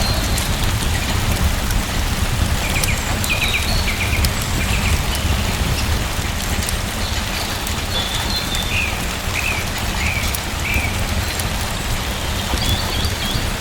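Steady rain falling, a dense even hiss with a deep rumble beneath and fine drop ticks. Short high chirps come in small groups several times across it.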